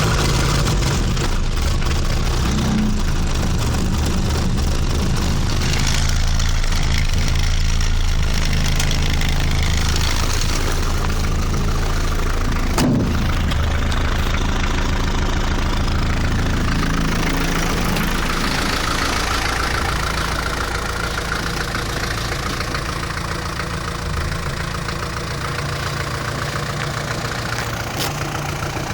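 Land Rover Series III's 2.25-litre four-cylinder diesel idling just after a cold start at −6 °C, running steadily. It settles a little quieter about two-thirds of the way through.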